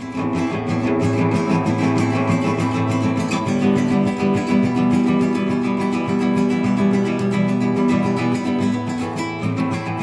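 Classical guitar improvising in fast plucked arpeggios over held bass notes, coming in loudly at the start.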